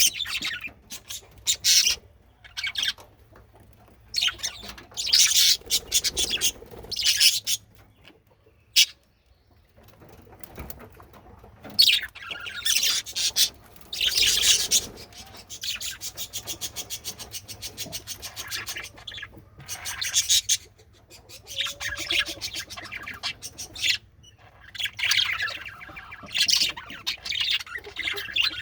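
Male budgerigars chirping and chattering in repeated bursts, with a longer stretch of rapid chatter about halfway through.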